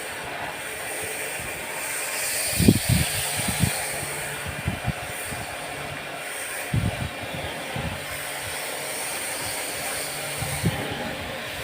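Steady hissing noise with a few short, low knocks scattered through it.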